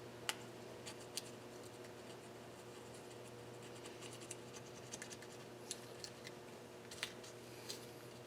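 Faint, scattered light clicks and scrapes of hands handling engine parts and tools, over a steady low hum.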